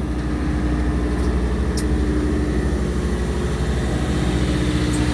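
Fishing boat's engine running steadily at low revs, with an even, pulsing drone and a constant hum.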